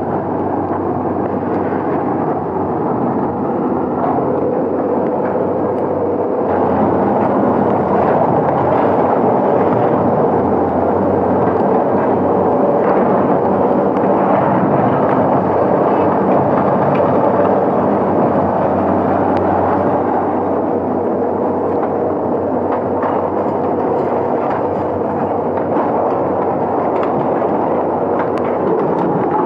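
Heavy machinery's engine running steadily under load, with light scattered knocks.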